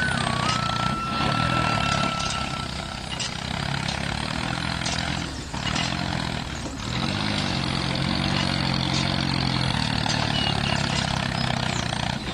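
Tractor engine running steadily, with two brief dips in the middle followed by a short rise and fall in pitch; a thin high tone sounds over it for the first few seconds.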